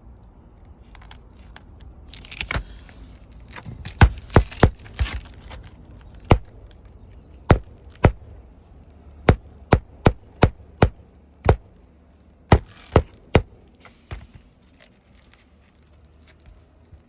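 Nails being driven into a 3-tab roof shingle to fasten it down: about sixteen sharp strikes, irregularly spaced and some in quick runs, from about four seconds in to near the end, with rustling just before them.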